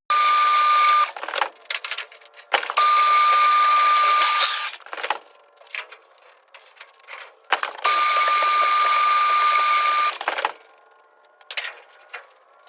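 A motorised machine or power tool running in three steady runs of one to two seconds, each with a constant high whine, with scattered clicks and knocks between the runs. The audio is sped up.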